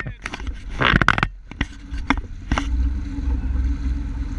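Honda AquaTrax F-12X personal watercraft's turbocharged engine running with a steady low hum, after a few knocks and a short burst of noise in the first couple of seconds.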